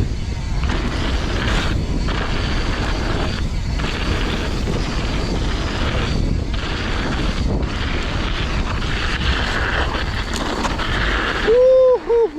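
Wind buffeting the microphone with a heavy, steady rumble over the tyre and trail noise of a mountain bike riding downhill. Near the end come three short pitched notes that rise and fall.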